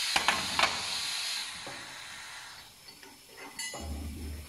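A hiss with two or three sharp clicks in the first second. The hiss dies away after about a second and a half, and a short low hum comes near the end.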